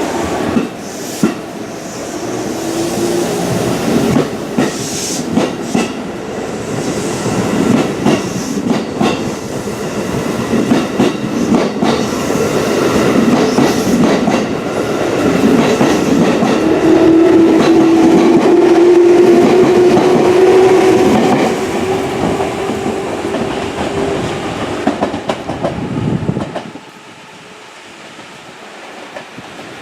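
Electric train running on the rails, its wheels clacking over rail joints under a steady motor whine. The sound swells to a peak about two-thirds of the way through, then cuts off abruptly near the end.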